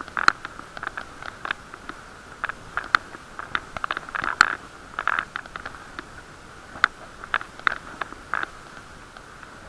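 Irregular clicks and knocks from a bicycle and camera mount rattling on the ride, over a steady hum, muffled inside an action camera's waterproof case.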